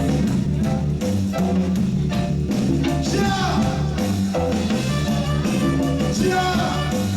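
Live reggae band playing: a repeating bass line and drums under a melodic lead.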